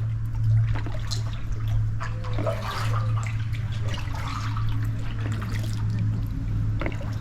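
Water trickling and splashing as kayak paddles dip and drip, in a series of small irregular splashes, over a steady low hum.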